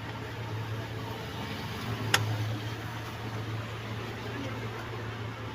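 Steady low mechanical hum over a background hiss, with one sharp click about two seconds in.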